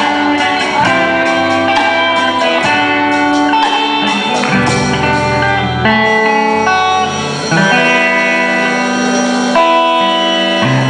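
Instrumental guitar music, held notes and chords changing every second or two, with no singing.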